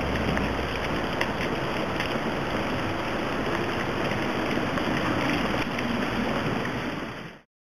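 Steady rain falling on a wet paved street, an even hiss with scattered drop splashes; it fades out quickly near the end.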